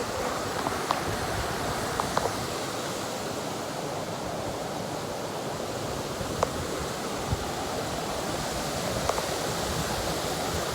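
Waterfall rushing in a steady, even roar of falling water, with a few faint brief clicks scattered through it.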